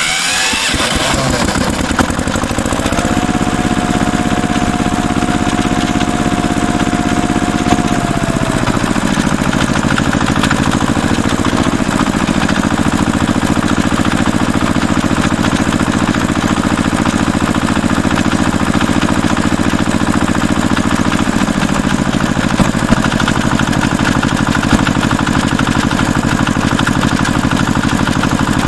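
Tractor engine running steadily. A thin whine comes in about three seconds in and slides down and fades about eight seconds in.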